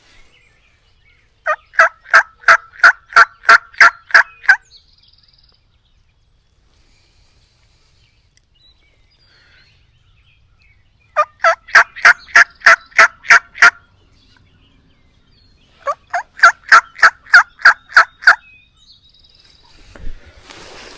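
Three loud runs of turkey yelping, about ten evenly paced notes each at roughly three a second, with quiet gaps between the runs.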